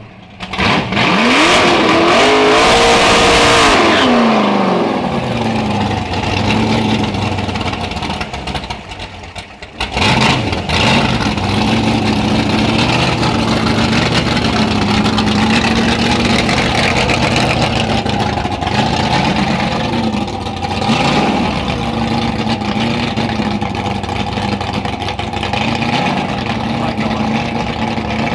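Bentley's twin-turbo W12 engine launching from the drag strip start line: its pitch climbs over about three seconds, then falls away as the car pulls off. From about ten seconds in, another car's engine runs close by with a steady, slightly wavering note.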